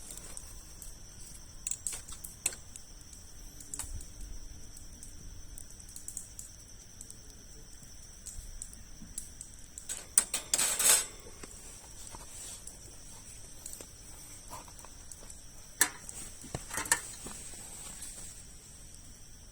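Wood campfire of large logs crackling with scattered sharp pops, with a louder burst of clattering about ten seconds in and two more sharp knocks near sixteen and seventeen seconds.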